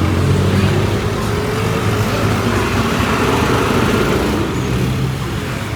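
A motor vehicle's engine running close by amid street traffic, a steady low hum under a wash of road noise, easing off slightly near the end.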